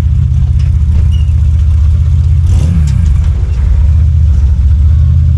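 BMW E36 rally car's engine running hard, loud and steady, its pitch dipping briefly and recovering about two and a half seconds in.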